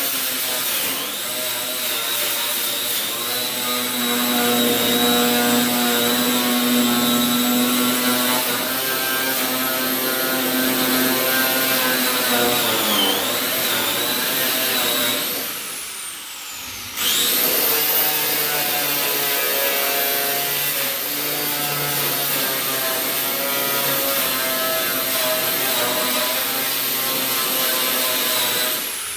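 Electric angle grinder with an abrasive stripping attachment (wire wheel or bristle disc) whining at high speed as it strips paint and rust from steel, its pitch dipping under load. About halfway through the motor winds down, then spins back up and carries on. It winds down again at the end.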